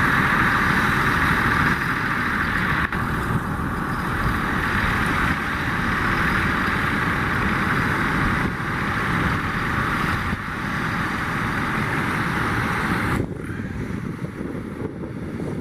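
Wind buffeting the microphone over a steady, rushing hiss, which drops off abruptly about thirteen seconds in.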